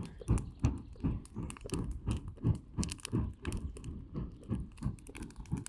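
Campfire of charcoal and sticks crackling and popping in quick, irregular clicks, over a run of repeated dull low thuds.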